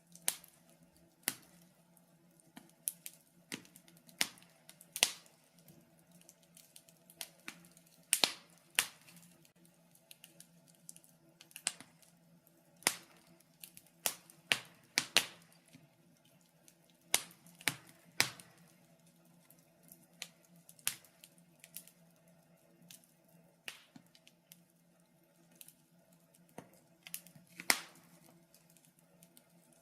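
Wood fire crackling in a fireplace: irregular sharp pops and snaps, some loud, with fainter crackles between them, over a faint steady hum.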